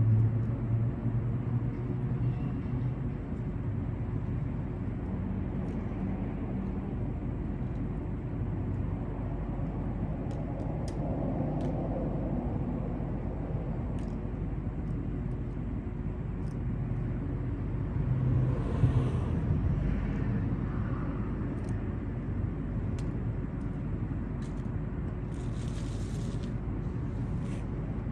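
Steady low rumble of motor vehicles, with a brief swell about two-thirds of the way in and a few faint clicks.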